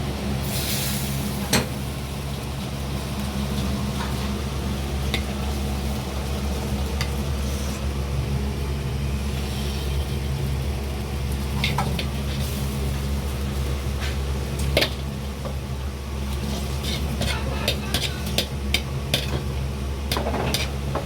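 Stir-frying in a wok: food sizzling over a steady low kitchen hum, with a metal ladle clacking against the wok now and then, several times in quick succession near the end.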